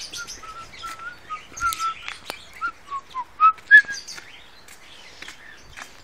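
Aviary birds chirping, with a quick run of about a dozen short whistled notes over the first four seconds, the last ones the loudest and highest.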